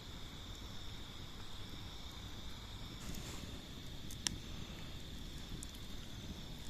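Crickets chirring steadily in one continuous high note, over a low background rush, with a single sharp click about four seconds in.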